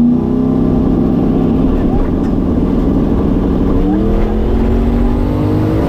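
Turbocharged LS V8 drag car accelerating hard, its engine pitch climbing, dropping at a gear shift about four seconds in, then climbing again.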